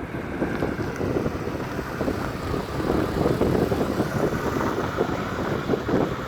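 Wind buffeting the microphone over a vehicle's uneven rumble.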